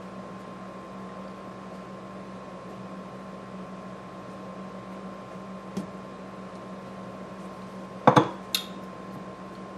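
Kitchenware knocking: a loud clatter of a utensil or dish against a dish about eight seconds in, with a smaller clink just after and a light tap a couple of seconds before, over a steady hum.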